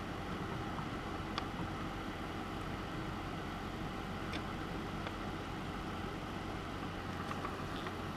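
Steady low background hum, with a few faint light ticks during soldering work on the circuit board.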